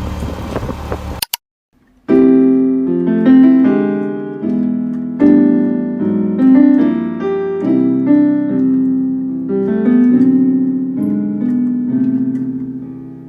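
Background music: solo piano playing a slow melody of struck notes that ring and die away, starting about two seconds in and fading near the end. Before it, about a second of a dense noisy sound that cuts off abruptly.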